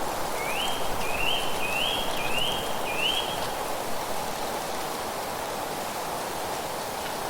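Steady rushing of wind through leaves, with a small bird calling five rising notes in a row, about two a second, during the first few seconds.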